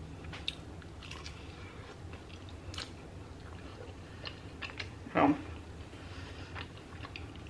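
Close-miked biting and chewing of a buffalo chicken quesadilla in a pan-fried flour tortilla, with small wet mouth clicks. A short hummed 'mm' comes about five seconds in.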